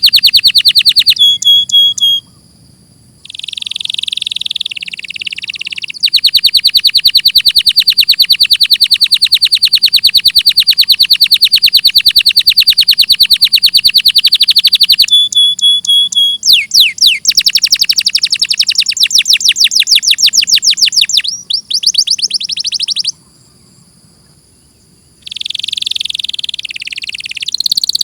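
Domestic canary singing: long runs of very fast, high trills, with two short pauses, one about two seconds in and one near the end.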